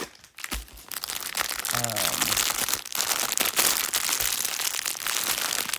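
Crinkly packaging rustling and crackling as it is pulled out and opened, starting about half a second in. A brief murmur of a voice comes about two seconds in.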